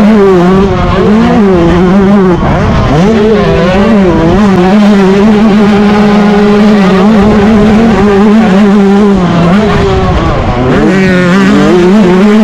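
Yamaha YZ125's two-stroke single-cylinder engine running hard at high revs, its pitch wavering with the throttle and dropping briefly a few times before climbing back.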